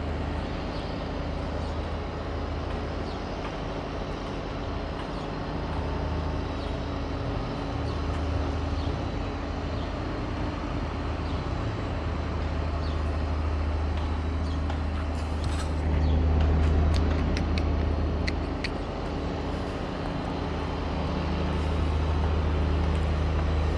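A steady low mechanical drone, swelling slightly about two-thirds of the way through, with a few light clicks.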